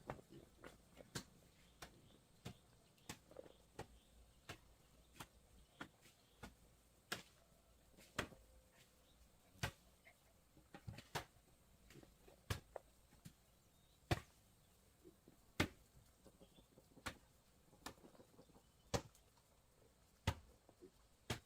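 A series of sharp knocks at uneven spacing, roughly one a second, some much louder than others, over a faint steady background.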